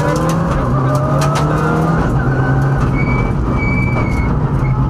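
Mitsubishi Lancer Evolution X rally car's turbocharged four-cylinder engine at full effort, heard from inside the cabin: the engine note rises over the first two seconds, then holds steady at high revs. A thin high whistle comes in briefly about three seconds in.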